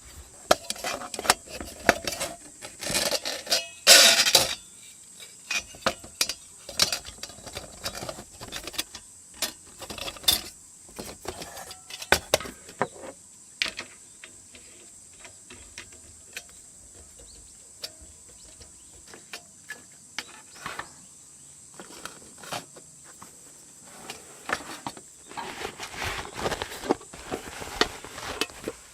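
Irregular clicks and knocks of things being handled, with a louder clatter about three to four seconds in and again near the end, over a steady high insect chirring.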